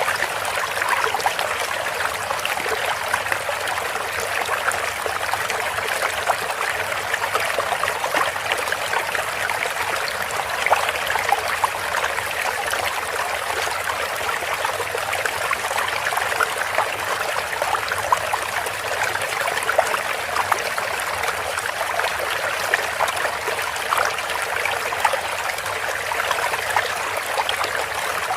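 A stream running steadily, with a continuous trickling and splashing of water.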